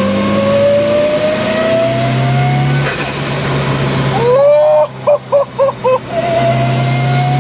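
Turbocharged Mitsubishi 4G63 four-cylinder engine accelerating hard under full throttle, its pitch climbing steadily, then dropping at a gear change about three seconds in. It rises again, and its note cuts in and out four times in quick succession around five seconds in before pulling on steadily.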